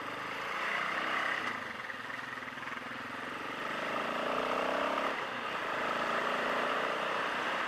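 Motorcycle engine accelerating, its pitch climbing about halfway through, then dropping briefly and settling, with wind rushing over the microphone.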